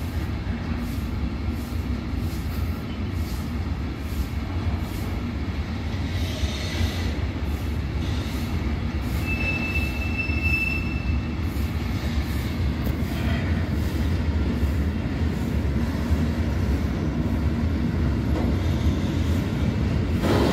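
A train running on the line with a steady low rumble, and a brief high-pitched wheel squeal about nine seconds in that lasts under two seconds.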